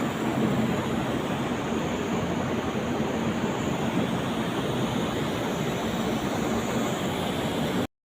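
Steady, loud machinery noise with a low hum, which cuts off abruptly near the end.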